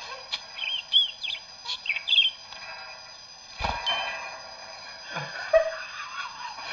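Parrot chirping and whistling in a quick run of short, bending notes, followed by a single knock about halfway through.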